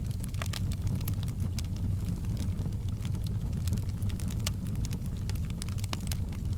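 Wood fire crackling, with scattered sharp pops over a steady low rumble, mixed with the sound of rain.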